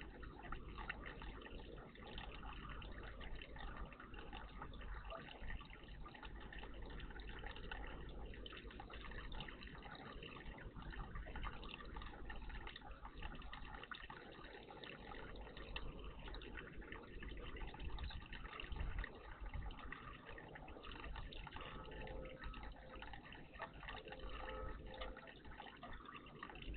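Water trickling and dripping steadily in a bird bath.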